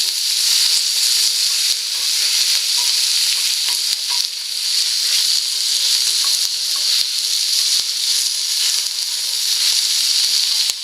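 Food sizzling steadily in a carbon-steel crêpe pan over a campfire, with a few faint ticks scattered through the hiss.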